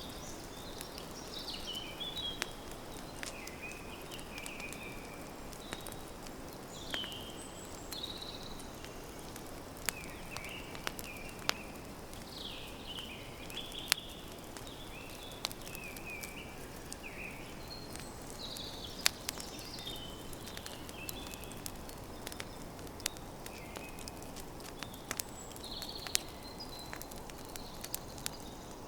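Campfire crackling, with frequent sharp pops over a steady hiss, while small birds chirp repeatedly in the background.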